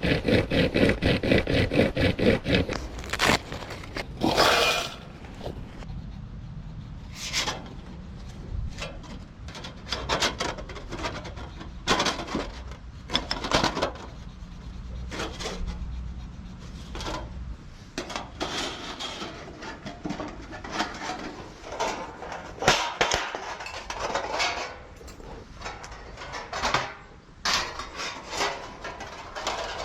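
Belmont TABI fire pit being put together: its titanium plates and stainless legs scrape, slide and click against each other. It opens with a quick, even rasp of clicks lasting a few seconds.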